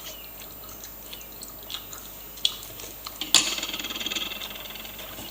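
A spoon clacking sharply against a plate of melted Snickers about three seconds in, followed by a second or so of scraping and small clicks, with a few lighter clinks before it.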